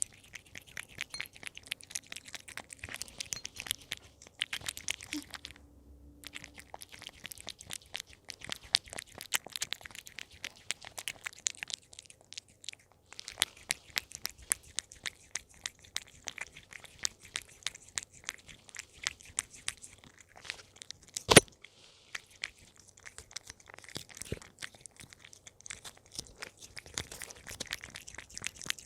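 Cat chewing treats close to a microphone: a dense, irregular stream of sharp crackling clicks, with one much louder knock about 21 seconds in.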